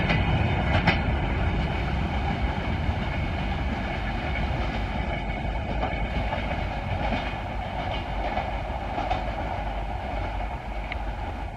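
Indian Railways express train of LHB coaches passing at speed, wheels clattering over the rail joints with a steady rumble and a few sharp clicks in the first second. The noise slowly fades as the train goes by.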